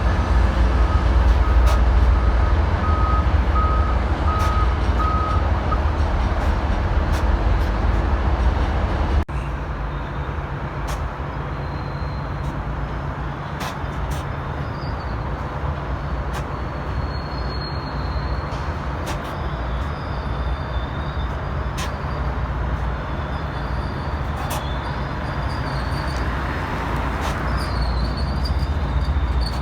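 Train noise: a loud low rumble with a repeated high-pitched beeping for the first several seconds. About nine seconds in it changes abruptly to a quieter, steady rumble with a low hum and faint high squeals.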